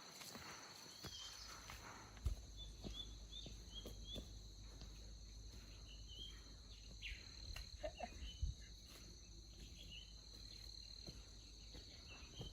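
Faint rainforest ambience: a steady high insect drone, with many short bird chirps scattered through it and a couple of soft knocks.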